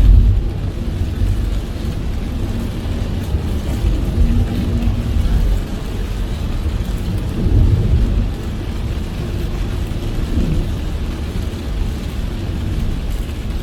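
A car driving through heavy rain: a steady low rumble of tyres and road with the hiss of rain on the car, swelling louder near the start and again about seven to eight seconds in.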